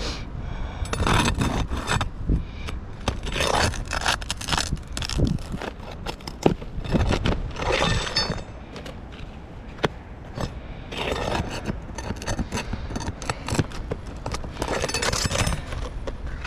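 A metal tool scraping and prying under asphalt tab shingles to work roofing nails loose. It comes in repeated bursts of scraping with sharp clicks and knocks, and short pauses in between.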